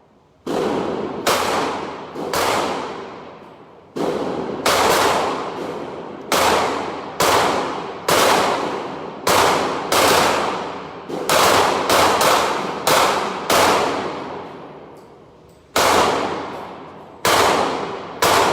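A string of about twenty gunshots fired one after another, roughly one a second at an uneven pace, each cracking sharply and ringing out in a long decaying echo. There is a gap of about two seconds near the end before the last few shots.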